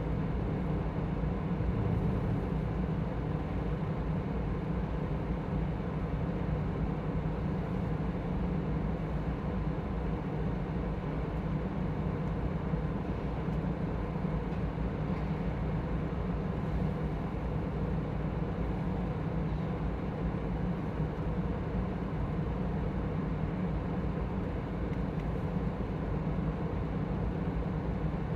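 Steady low drone of a large car ferry's engines and machinery, a hum of several low tones that holds level throughout.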